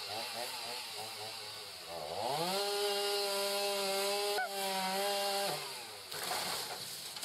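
Two-stroke chainsaw engine, its pitch wavering with the throttle at first. About two seconds in it revs up to a high, steady full-throttle pitch, holds it for about three and a half seconds, then drops back.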